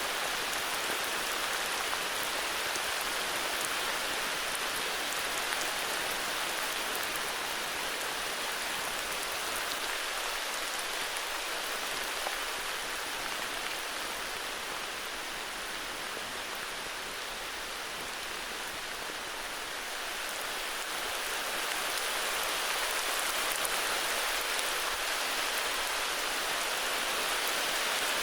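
Steady heavy rain falling and pattering on surfaces, as a continuous even hiss that eases slightly partway through and picks up again toward the end.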